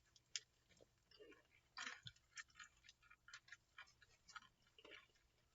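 Faint chewing of extra-crispy fried chicken: scattered quiet crunches and clicks of the crust between the teeth, with one slightly louder crunch a little under two seconds in.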